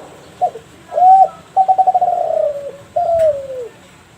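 Derkuku Kelantan spotted dove cooing one full song phrase: a short note, a longer note, a rapid rolling note that sinks in pitch, and a last note sliding downward.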